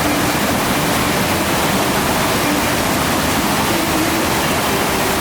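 FlowRider surf machine's pumped sheet of water rushing steadily over the ride surface.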